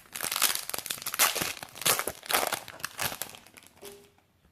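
Foil wrapper of a Yu-Gi-Oh booster pack crinkling and tearing as it is opened by hand, a dense run of crackles that dies away near the end.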